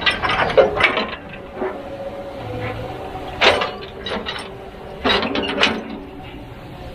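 Kobelco SK200-10 excavator working, its diesel engine running steadily under a series of sharp metallic clanks and knocks: a cluster in the first second, a single one about three and a half seconds in, and another cluster near the end.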